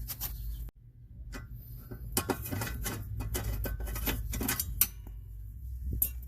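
Screwdriver working the fasteners of a quad's exhaust heat guard: a quick run of small metallic clicks and ticks, with a sharper click near the end, over a low steady hum.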